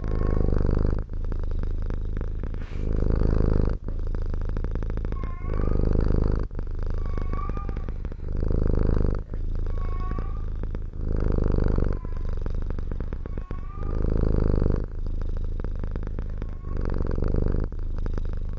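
Domestic cat purring loudly and close, the purr swelling and easing with each breath about every second and a half. Faint short chirps sound on several of the breaths.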